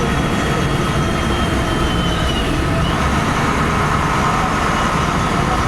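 LiAZ-5256 city bus under way, heard from inside: a steady rumble of engine and running gear with thin whining tones above it.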